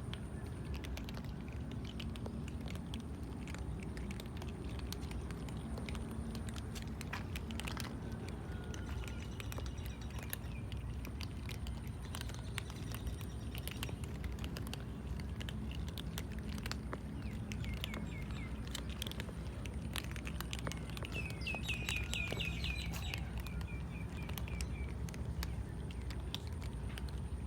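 Cats eating, with scattered small crunches and clicks over a steady low rumble. A run of bird chirps comes about 21 seconds in.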